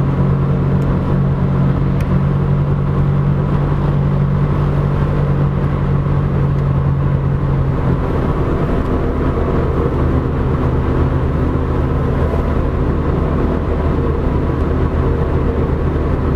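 A vehicle engine running steadily, with a change in its tone about eight seconds in.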